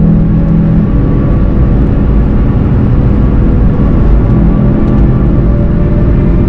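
Volkswagen Golf 7 GTI TCR's turbocharged four-cylinder engine pulling at steady revs, with road and tyre noise underneath.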